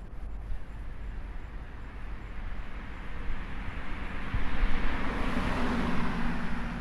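A passing vehicle, its engine hum and hiss growing louder over the last few seconds, over a low wind rumble on the microphone.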